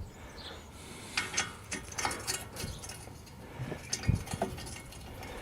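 Hand tools on metal while screwing in a bolt: scattered metallic clicks and clinks in short clusters about a second in, around two seconds in, and again near four seconds.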